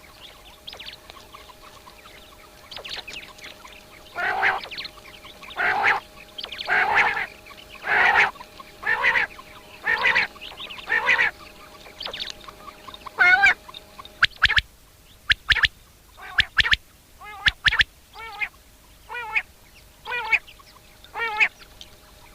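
Bird calls: a series of six harsh calls about a second apart, then a looser run of sharp, very short notes mixed with wavering calls.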